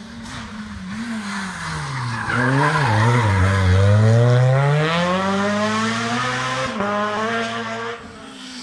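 Rally car braking into a corner, its engine note falling, then accelerating hard out of it with steadily rising revs and a gear change near the end. The car is loudest around the middle and then fades away.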